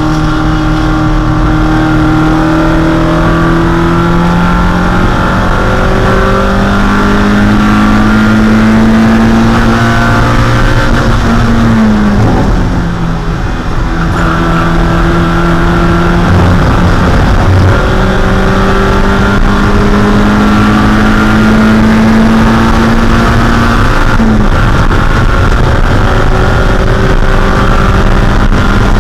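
1.6-litre Mazda Miata four-cylinder race engine under load from inside the car, its pitch climbing slowly for about ten seconds, dropping sharply about twelve seconds in, climbing again, and dipping once more near the end before holding steady. Steady road and wind noise runs underneath.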